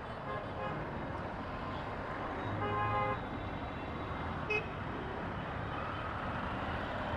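Dense road traffic running around the motorcycle, with a vehicle horn sounding once for under a second about two and a half seconds in, and a short beep a couple of seconds later.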